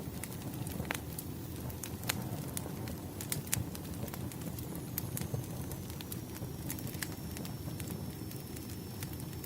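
Firewood fire burning, with a steady low rumble of flames and irregular sharp crackles and pops. A faint, thin, high whistle joins about halfway through and holds steady.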